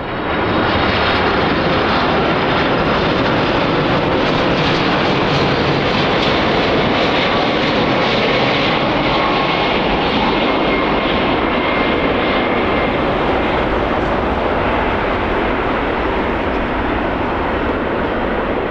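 Airliner jet engines running loud and steady, a dense rush of noise with faint whining tones in it, easing slightly near the end.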